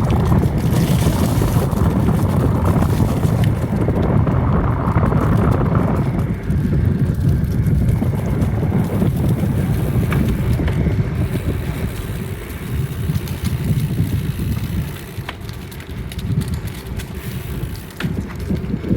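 Wind buffeting a phone's microphone during a bicycle ride, with a steady low rumble and a few faint clicks; it eases off near the end.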